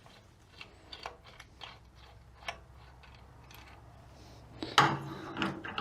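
Scattered light clicks and taps of tools and metal parts being handled, then a louder clatter and scrape near the end.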